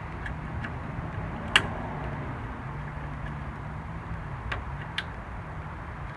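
Small metal clicks and taps of hand tools working at the C-clip that holds the gear on a Briggs & Stratton starter's Bendix drive, with one sharp click about one and a half seconds in and two more near the end. A low hum runs underneath.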